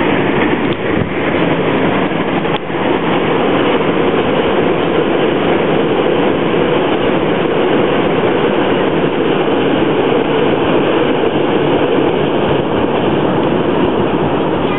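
A multi-car passenger train crossing a steel truss railway bridge: a loud, steady rumble of the train on the bridge.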